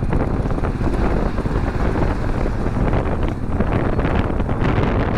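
Wind rushing steadily over the microphone of a moving motorcycle at road speed, with the vehicle's running and road noise underneath.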